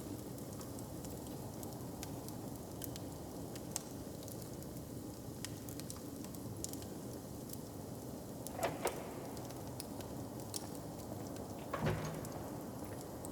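Open fire crackling, with scattered sharp pops over a steady low background ambience, and two louder knocks in the second half.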